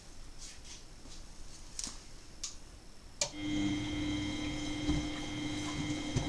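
Miele Novotronic W923 washing machine during its wash cycle: a few faint ticks, then a sharp click about three seconds in as a motor in the machine starts up and runs with a steady hum and a high whine.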